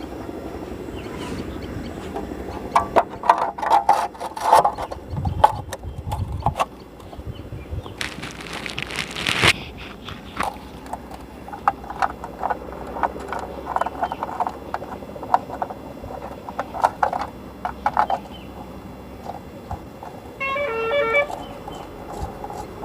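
Scattered clinks and knocks of hand work on a motorcycle's chain and sprocket covers, with a short hiss about eight seconds in and a brief pulsed, pitched sound near the end.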